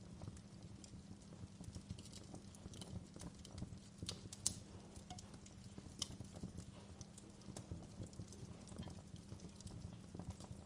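Wood fire crackling: irregular pops and snaps over a low steady rumble, with one sharper, louder pop about four and a half seconds in.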